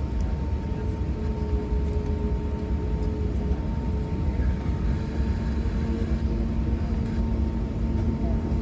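Steady airliner cabin noise: a deep, even engine and airflow rumble with a constant hum over it.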